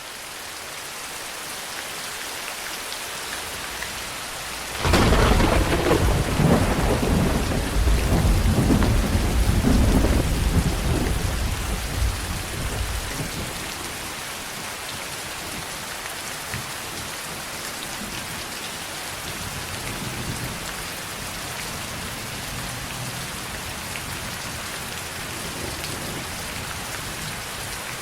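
Steady heavy rain, with a loud thunderclap breaking about five seconds in and rumbling away over the next several seconds.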